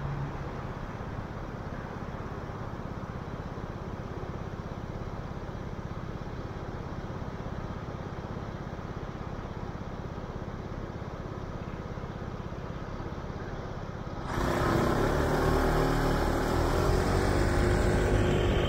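Steady road-traffic noise that becomes much louder and fuller about fourteen seconds in, as a louder vehicle noise comes up.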